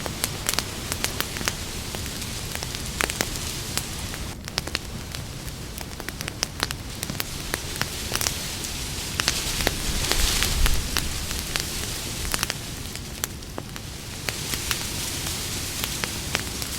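Campfire burning: a steady hiss of flames with frequent sharp crackles and pops from the burning wood. The fire swells louder for a moment about ten seconds in.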